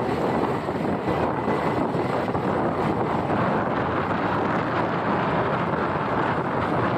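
Steady wind rushing over the microphone, mixed with the running noise of a moving motorbike.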